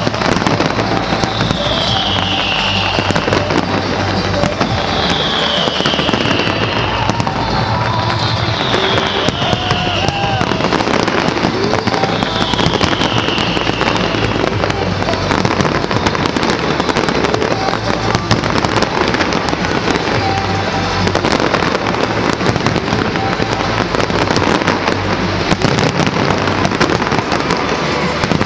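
Large professional fireworks display: a continuous barrage of bangs and crackling bursts.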